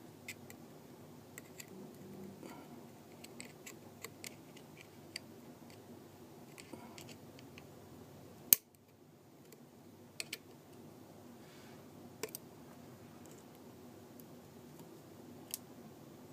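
Scattered light clicks and taps of small repair tools against the parts of a disassembled iPhone 4S, with one sharp, loud click about eight seconds in.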